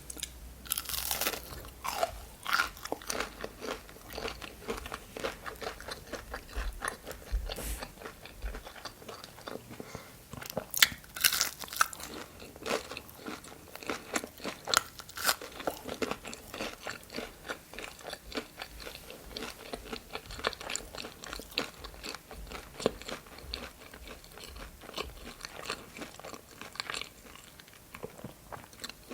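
A person eating crunchy food close to the microphone: continuous irregular crunching bites and wet chewing, with a few louder crunches midway.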